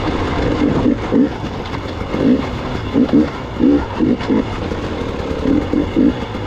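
Gas Gas EX 300 two-stroke enduro motorcycle engine running, with the throttle worked in short bursts about once a second while riding rough terrain.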